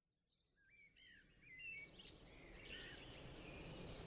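Faint chirping of small birds, a string of short up-and-down calls, over a low steady outdoor background hum that fades in from silence.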